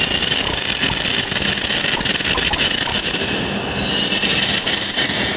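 E7 series Shinkansen train pulling into the platform and braking to a stop, with a steady high-pitched squeal and a hiss.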